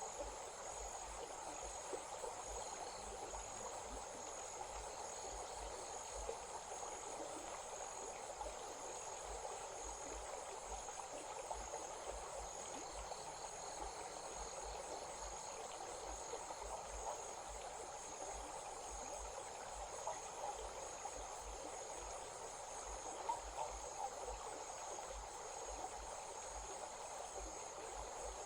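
Insects trilling in a steady, high, pulsing drone over the even rush of a running stream, with a second, lower trill joining briefly a few times.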